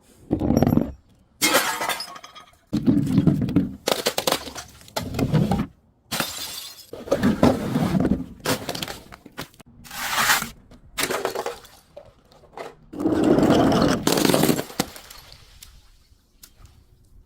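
Glass breaking and crunching in a run of about eight separate crashes, each followed by a crackle of shards.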